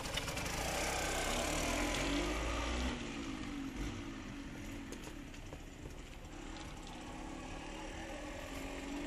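Derbi GPR 125 motorcycle engine pulling away and running at low speed through tight figure-eight turns, its pitch rising and falling with the throttle. It is louder at first, fades as the bike moves off across the yard, and grows louder again near the end as it comes back round.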